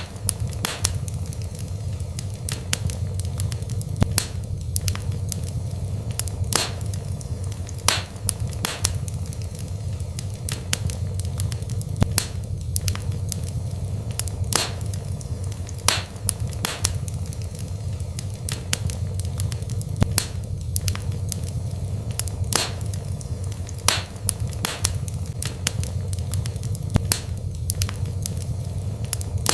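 Wood fire burning in a fireplace: a steady low rumble with sharp pops and crackles at irregular intervals, several every few seconds.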